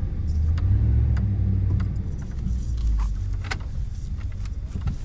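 Low rumble of a truck heard from inside the cab, strongest in the first few seconds, with scattered sharp clicks and rattles.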